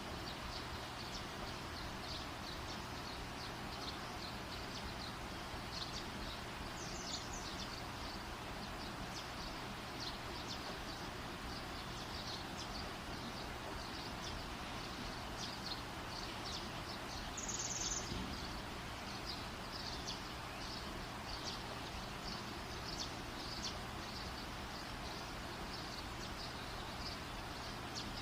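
Wood fire burning with a steady hiss and many small, irregular high-pitched crackles and snaps, one a little louder about two-thirds of the way through.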